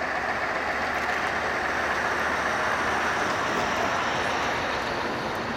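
Heavy truck driving past, a steady mix of engine and tyre noise that swells slightly midway.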